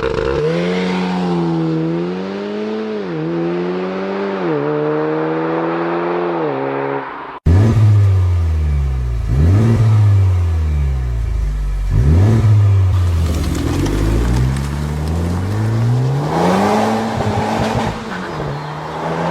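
V4 engine exhaust given a few short blips of the throttle, then, after an abrupt cut about seven seconds in, a louder V4 revved up and down several times before climbing and settling to a steady note near the end.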